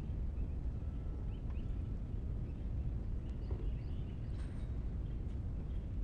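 Outdoor ambience of small birds chirping faintly, in short calls scattered throughout, over a steady low rumble.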